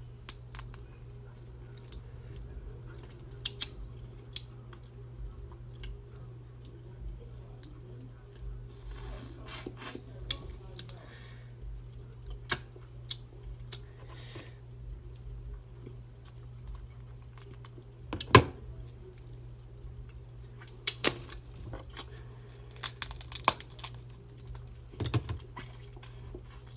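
Close-miked eating of a seafood boil: scattered sharp cracks and snaps of seafood shells being broken and peeled, with tearing and chewing in between, over a steady low hum. The loudest cracks come about 3.5 s and 18 s in, and a busy run of snaps follows near the end.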